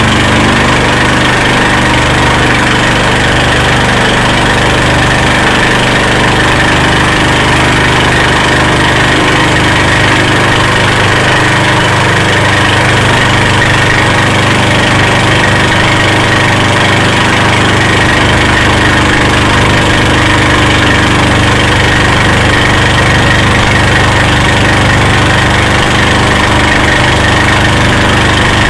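Motorboat engine running steadily and loud, with no change in speed.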